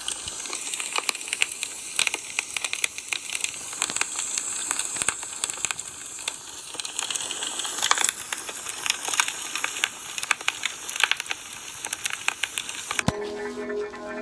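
Wood campfire crackling, a steady hiss broken by many sharp pops and snaps. Music cuts in near the end.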